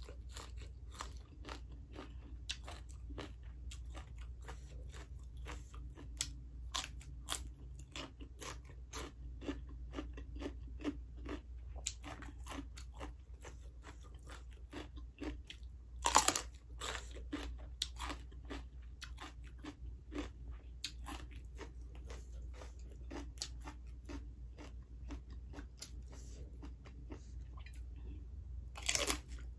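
Close-up crunching and chewing of raw vegetables in the mouth, a steady run of crisp crunches. About halfway and again near the end come louder crisp bites into raw carrot.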